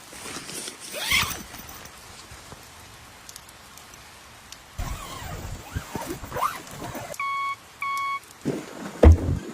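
Two short, identical electronic beeps about seven seconds in, over rustling handling noises and faint rain, with a loud thump near the end.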